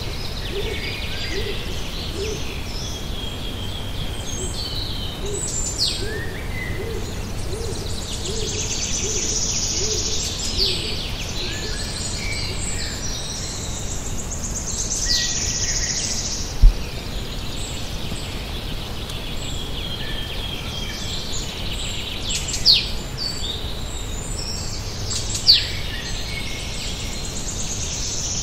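Woodland birdsong: several songbirds sing high phrases that end in quick falling notes. Under them, a bird gives a low hooting series of about a dozen short, evenly spaced notes over the first nine seconds or so. A single low thump comes about 17 seconds in.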